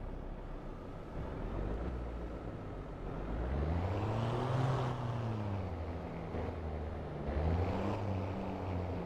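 Scania V8 diesel truck engine running, revved up about three seconds in and easing back down, then given a shorter rev near the end.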